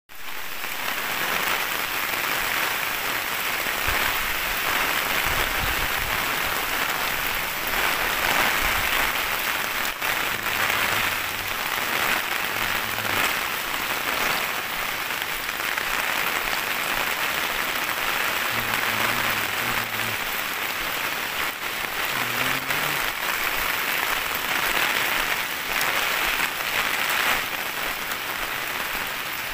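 Heavy rain pouring steadily onto a concrete street, an even hiss. A few faint low hums come and go around the middle.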